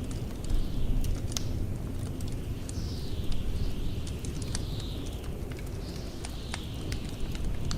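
Blizzard wind with a steady deep rumble and a high whistle that dips in pitch every second or two, over scattered sharp pops and crackles of a wood fire burning in a fireplace.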